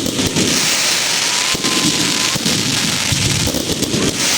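Fireworks going off in a dense, continuous crackle of many small rapid bangs.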